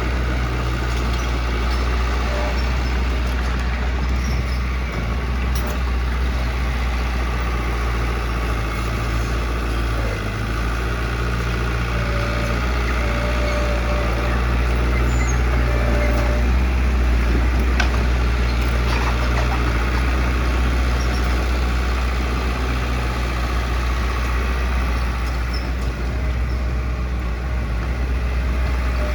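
Heavy diesel construction machine engine running steadily with a low, unbroken hum.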